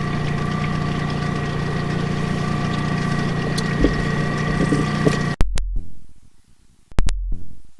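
A steady engine-like hum with a few held tones, which cuts off abruptly about five seconds in; two short low thumps follow in near silence.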